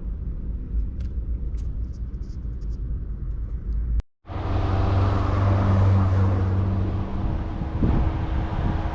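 Car cabin noise while driving: a steady low rumble of engine and road. About four seconds in it breaks off abruptly, then returns as a louder, steady drone with a low hum.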